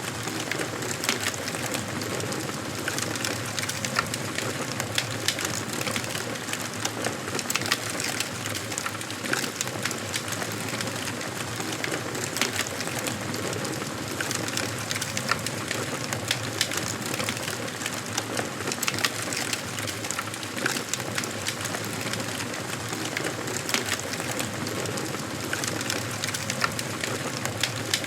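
Wood fire burning in a fireplace, with continuous crackling and irregular sharp pops over a steady hiss of flames.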